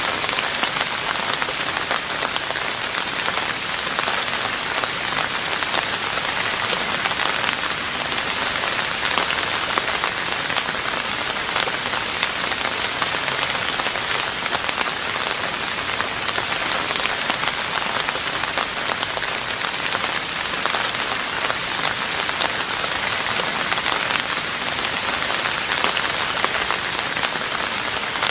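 Steady rain falling on a roof, a dense, even patter with no change in strength.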